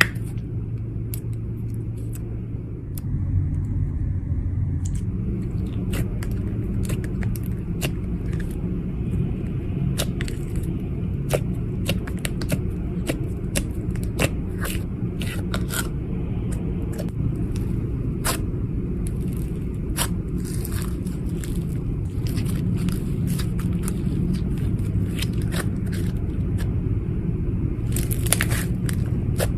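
Slime being worked by hand, giving irregular sticky crackles and small pops that come thicker near the end, over a steady low rumble.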